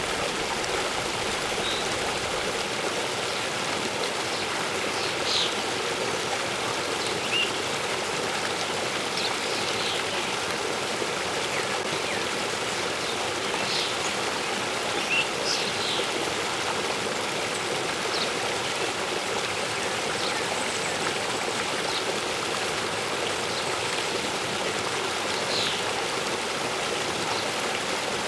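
Steady rush of a waterfall, with short high bird chirps scattered throughout.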